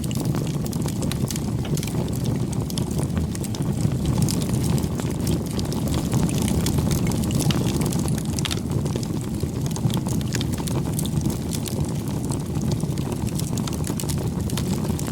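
Campfire burning: a steady low rumble of the flames with many small crackles and pops of burning wood throughout.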